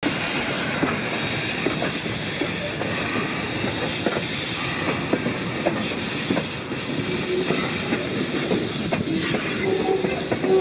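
Train running along the track behind steam locomotive RX 207, its wheels clicking steadily over the rail joints.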